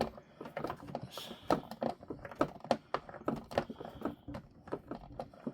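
Small screwdriver driving a screw into a plastic toy body: a string of irregular small clicks and creaks as the screw is turned. The owner suspects the screw is stripping the plastic.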